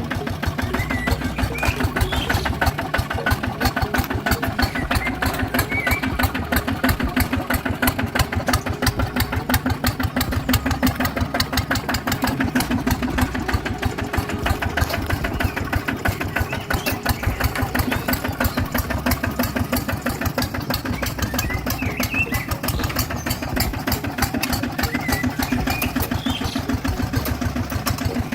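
Small tractor engine running steadily with a rapid, even chugging beat.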